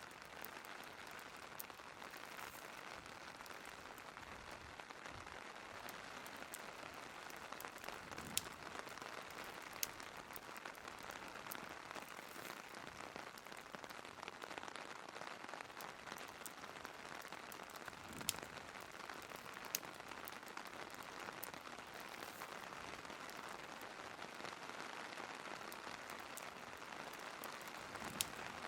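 Steady rain hiss from an ambience track of rain with a fireplace, broken by a few sharp, isolated pops from the crackling fire.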